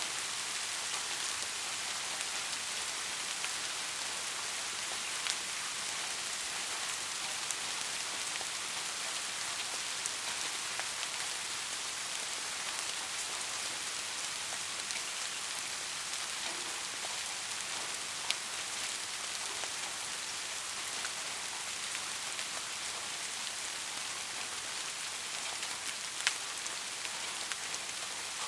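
Steady rain falling as an even hiss, with three sharper single drop hits standing out: about five seconds in, near the middle and near the end.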